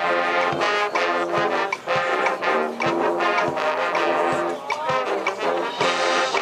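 High school marching band playing, with the brass section carrying sustained chords over drum-line strokes.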